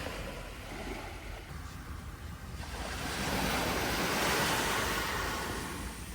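Sea surf washing onto the shore, one wave's rush swelling about halfway through and fading near the end, with wind rumbling on the microphone.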